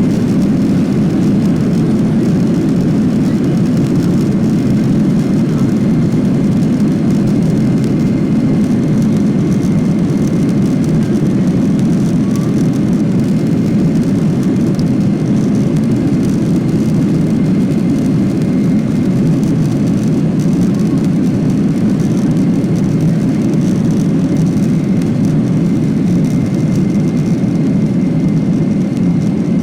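Boeing 737-800's CFM56-7B jet engines at takeoff thrust, heard from inside the cabin: a loud, steady rumble with a faint thin whine above it.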